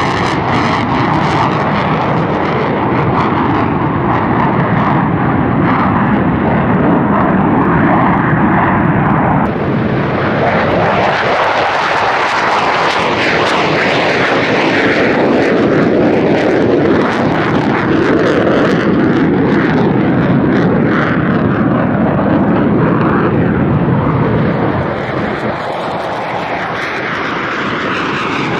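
Aircraft flying past with loud, continuous engine noise. The sound turns brighter and harsher about ten seconds in, then eases slightly near the end.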